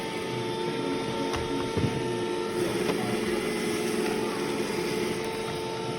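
Robot vacuum running: a steady motor whine over brush and suction noise, with a light knock about two seconds in.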